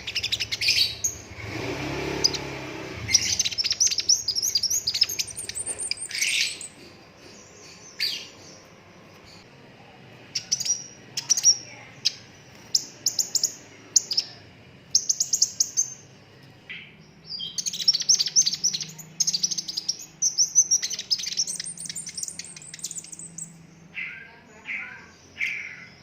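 Sunbird singing: fast high trills and chip series in short bursts with brief pauses between phrases. A short low noise comes about two seconds in.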